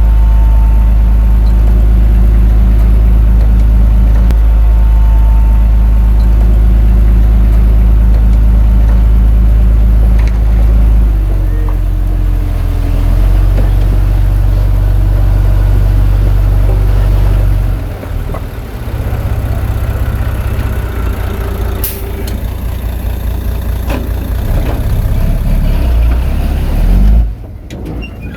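Heavy diesel engine running loud and steady. It changes note about eleven seconds in and drops in level about eighteen seconds in.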